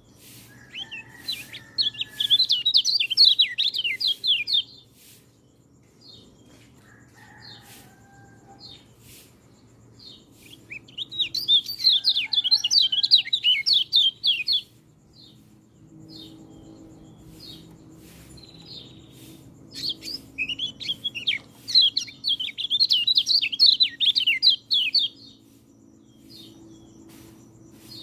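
White-eye (peleci) singing: three bouts of rapid, high twittering song, each lasting three to four seconds, with pauses of several seconds between them.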